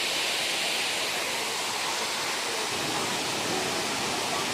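Waterfall: a steady, unbroken rush of falling water, with faint voices of people in the background after about three seconds.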